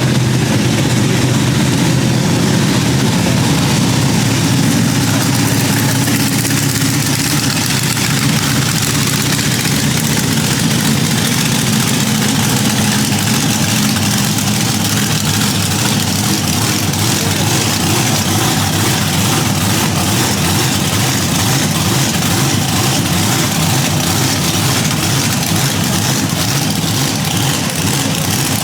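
Large engine running steadily at idle, loud and even throughout.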